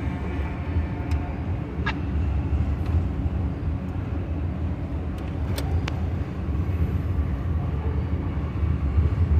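Steady low rumble of a car driving, heard from inside, with a few light ticks.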